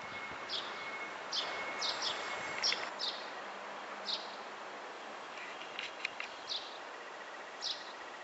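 Small birds chirping: about ten short, high chirps scattered irregularly, over a steady outdoor hiss.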